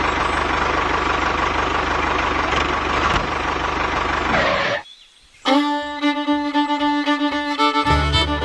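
A small tractor engine running steadily, cutting off suddenly about five seconds in. After a brief pause, fiddle music starts, with a bass beat joining near the end.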